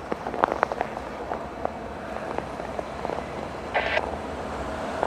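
Empty freight train led by two CSX diesel locomotives approaching at low speed: a steady rumble with irregular sharp clicks and knocks from the wheels on the track, and a brief ringing tone about four seconds in.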